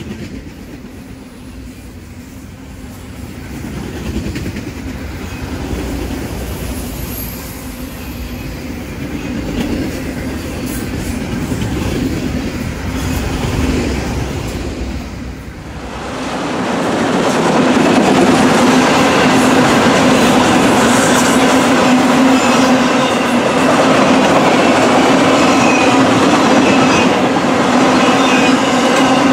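Norfolk Southern autorack freight cars rolling past at speed: a steady noise of car wheels running on the rails. It jumps suddenly louder and brighter about halfway through.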